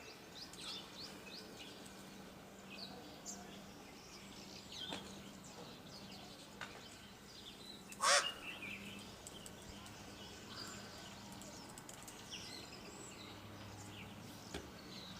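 Small birds chirping over a faint steady background, with many short, high calls scattered throughout. About halfway through comes one loud, brief sound, the loudest thing heard.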